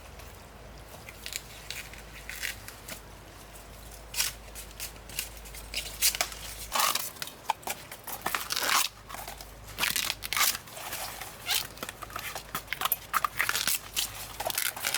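Irregular crisp crunching, snapping and tearing sounds. They start about four seconds in and come thicker from about six seconds.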